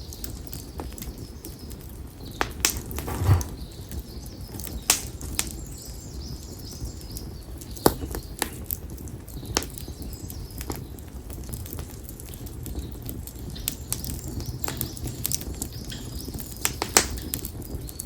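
Campfire of split konara oak logs crackling, with irregular sharp pops, a few of them louder, over a low steady fire rumble. Birds chirp faintly in the background.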